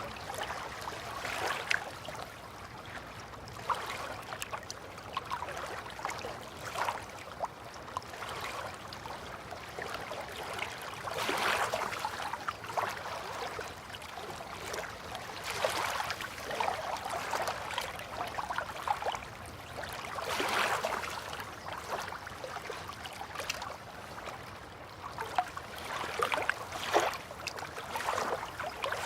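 River water lapping and splashing at the water's edge, in irregular small surges every few seconds.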